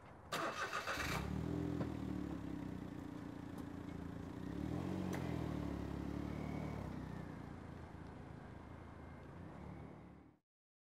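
Smart Fortwo's small three-cylinder engine cranked by the starter and catching within about a second, then running as the car pulls away, its note rising for a moment about halfway through and easing off again. The sound cuts off suddenly near the end.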